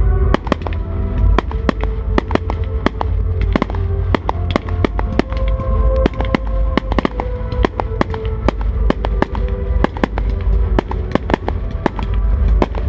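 Fireworks bursting in quick succession, several sharp bangs a second, over music playing throughout.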